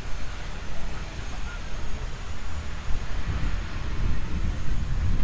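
Wind buffeting the microphone in an uneven low rumble, over a steady hiss of beach surf.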